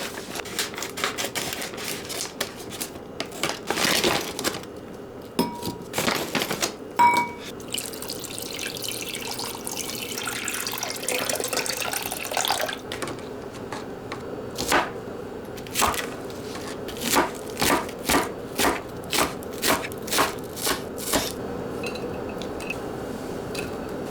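Kitchen work at a sink: water running for a few seconds, then a run of evenly spaced knocks of dishes or utensils. Scattered clicks and clinks of kitchenware come before and between.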